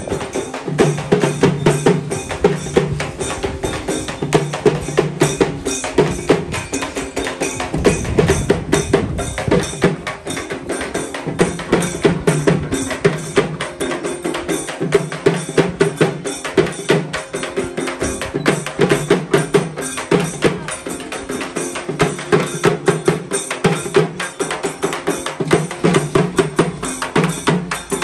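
Procession music: fast, dense drumming, many strokes a second, under a sustained pitched melody line.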